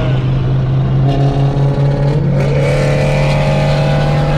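Muscle car engine running under way with a steady low drone; about a second in a higher engine note comes in and rises in pitch as the car accelerates, then holds steady.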